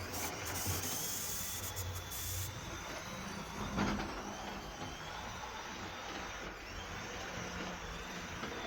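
HO scale DC model diesel locomotive running along the layout track: a steady motor hum with a faint high whine and wheels rolling on the rails, with a single click about four seconds in.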